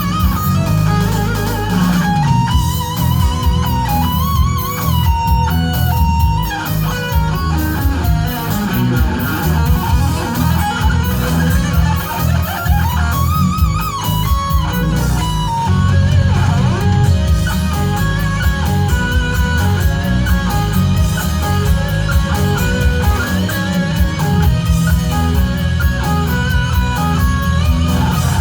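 Live instrumental rock: an electric guitar plays a sustained lead melody with vibrato and bends over bass guitar and drums.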